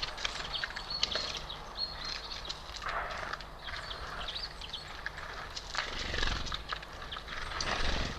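Small birds at a feeder giving short, high chirps and calls, with scattered taps and clicks.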